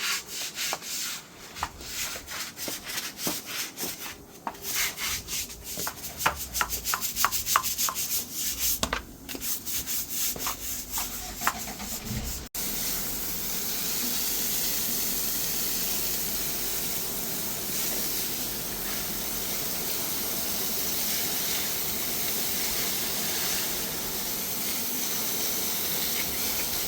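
Rapid, uneven rubbing strokes, like a brush scrubbing a hard surface. About halfway through they cut off abruptly, giving way to a steady hiss.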